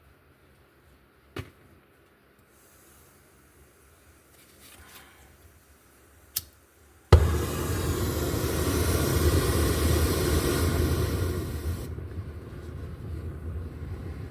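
Two sharp clicks, then about seven seconds in a hand torch lights with a pop and runs with a steady loud hissing rush. It is turned lower about five seconds later, for heating a part.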